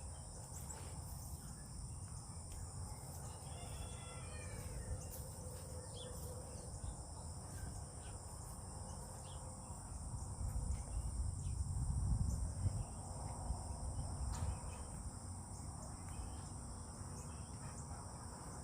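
Steady high insect chorus of crickets, with a single bird call about four seconds in. A low rumble, louder around the middle, runs underneath.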